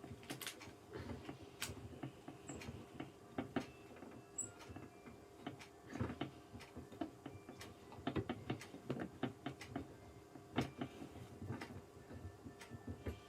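Irregular small clicks and knocks of screws being turned in by hand with a tool into a gaming chair's parts during assembly, at a low level over a faint hum.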